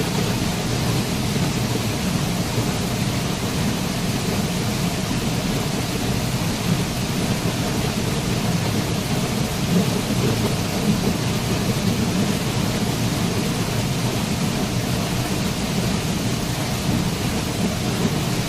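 Waterfall: a steady, continuous rush of falling water, with its weight in a deep low rumble.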